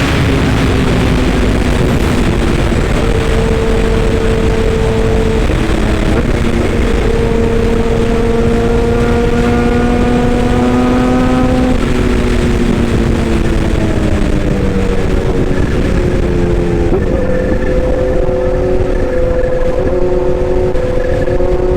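An engine running steadily, its pitch drifting slowly up and down with a rising and falling whine over a dense rumble.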